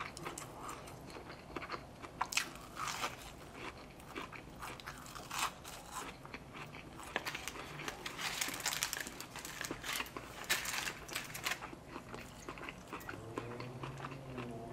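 Close-miked chewing and crunching of crispy fried food, with scattered crackly bites and mouth sounds, busiest about eight to eleven seconds in.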